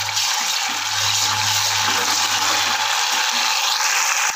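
Ginger-garlic paste and fried onions sizzling in hot oil in an aluminium pressure cooker while being stirred with a steel ladle: a loud, even hiss that cuts off suddenly at the end.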